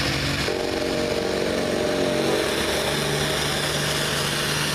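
Modified farm pulling tractor's engine running steadily. A higher engine tone joins about half a second in, and its pitch eases down about two seconds in.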